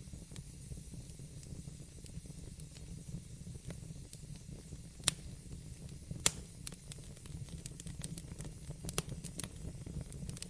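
Wood fire in a fireplace crackling over a steady low rumble of flame, with scattered small snaps and two sharp pops about five and six seconds in.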